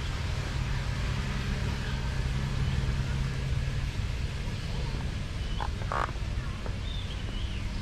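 A steady low engine hum, with a few short high chirps about six seconds in.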